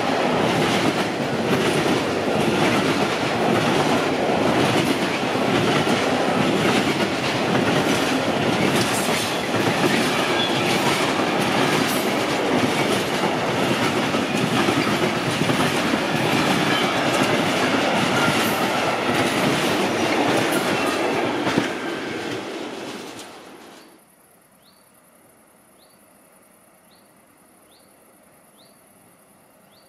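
Intermodal freight train passing close by: a loud, steady rolling noise with wheels clattering over the rail joints. It dies away about two thirds of the way through, leaving a steady high insect buzz and a short chirp repeated about once a second.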